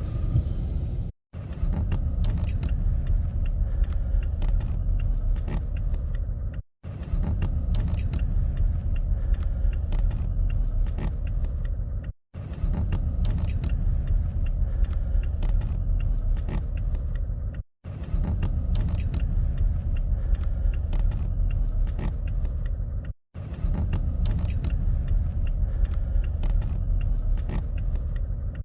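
Steady low road rumble of a moving car, with scattered small clicks and rattles. It drops out briefly about every five and a half seconds.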